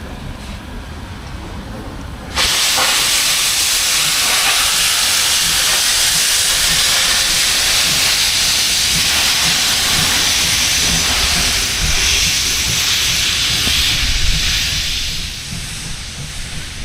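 Steam locomotive 01 066 letting off steam: a loud, steady hiss that starts abruptly about two seconds in, holds for over ten seconds and eases off near the end.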